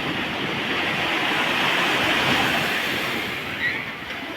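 Sea waves breaking on a beach: a rush of surf that swells over the first couple of seconds and then washes back and fades.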